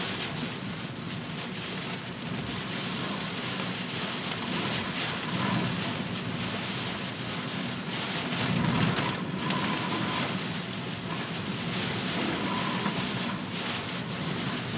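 Heavy typhoon rain pouring down, a dense steady hiss with a low rumble underneath.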